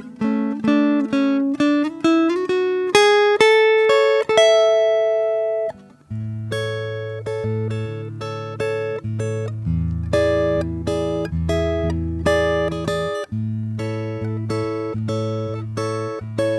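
Solo acoustic guitar playing picked notes: a run that climbs to a held note, a short break about six seconds in, then a steady repeating pattern over low bass notes.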